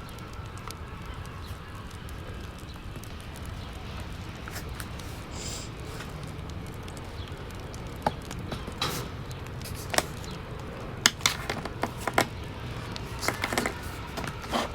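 Wood fire burning in a fireplace: a steady low rumble with scattered sharp crackles and pops, which come more often in the second half.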